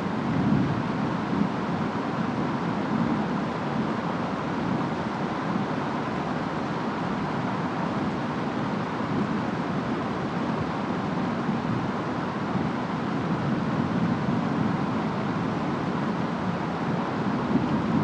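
Steady storm rain and wind, an even, dense hiss with a deep body and no separate strikes.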